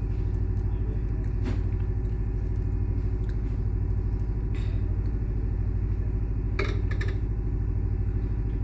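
A steady low mechanical hum at a constant level, with a few faint brief clicks and knocks, one about a second and a half in and a couple more near the end.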